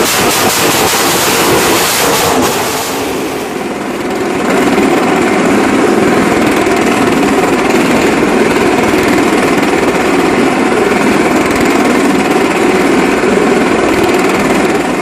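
Motorcycle engines running hard as bikes circle a wall-of-death drum, a loud steady drone. A rattling hiss over the engines drops away about three seconds in.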